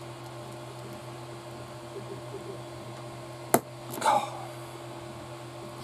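Small plastic model-kit parts being handled: one sharp click about three and a half seconds in, then a brief short scrape, over a steady low electrical hum.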